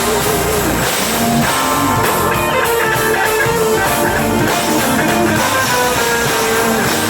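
A band playing an instrumental passage, with guitar prominent over drums in a rock style.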